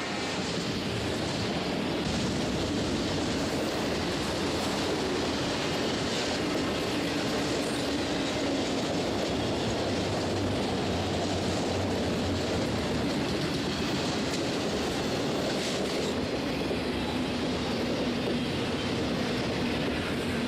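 Freight train rolling steadily past, its steel wheels running over the rails in a continuous, even clatter.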